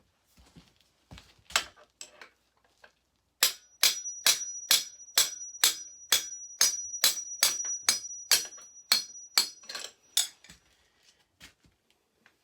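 Repeated metal-on-metal hammer blows driving a dirt bike's engine mount bolt out of the frame: a few light taps, then a steady run of sharp strikes, about three a second, each with a high metallic ring, for some six seconds.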